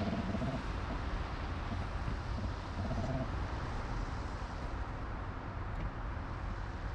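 Steady low rush of wind on an action camera's microphone, mixed with the road noise of a bicycle in motion.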